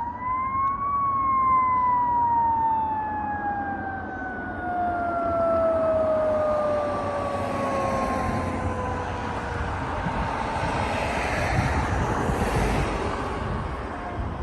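Fire apparatus mechanical siren winding up, peaking about a second in, then coasting slowly down in pitch for about nine seconds. After that, heavy truck engine and road noise swells as the vehicles go by.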